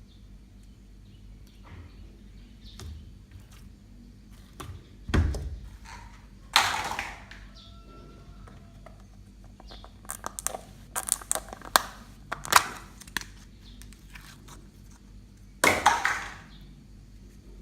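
Homemade slime being handled and mixed: scattered squelching bursts, plus a run of quick sticky crackles and pops about two-thirds of the way through.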